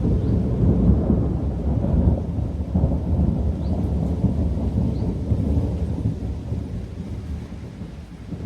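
Rolling thunder: a low rumble that swells in suddenly, peaks within the first two seconds and slowly dies away, with rain falling underneath.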